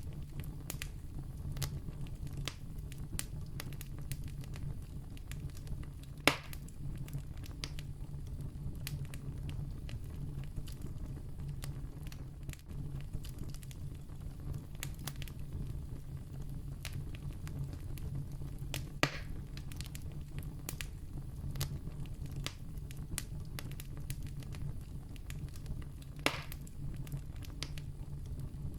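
Wood campfire crackling: many small clicks over a low, steady rumble of burning, with three louder pops several seconds apart.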